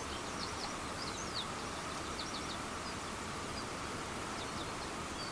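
Fenland reed-bed ambience: a steady outdoor hiss with faint, brief high chirps from small birds every second or so.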